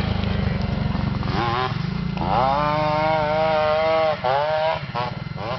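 Small motorcycle engines running. One revs up several times, holding a steady high note for about two seconds in the middle, over the low pulse of an engine running at lower revs.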